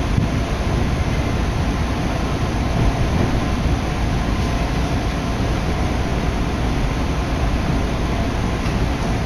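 Steady running noise of a Shin'etsu Line electric train heard from inside the passenger car, the wheels on the rails and the car's motion making an even, continuous din.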